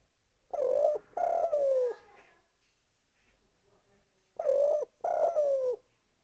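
Spotted dove (derkuku) cooing: two calls about four seconds apart, each a short coo followed by a longer coo that falls in pitch.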